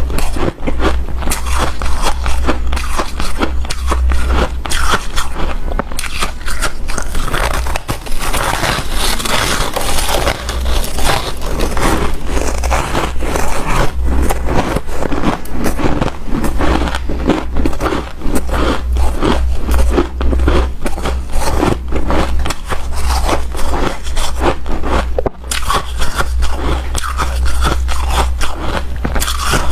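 Close-miked biting and chewing of hard, powdery ice, like snow or freezer ice: a dense, unbroken run of crunches and scrapes.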